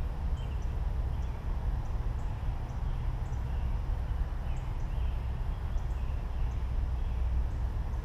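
Steady low rumble, with faint, short bird chirps about once a second in the background.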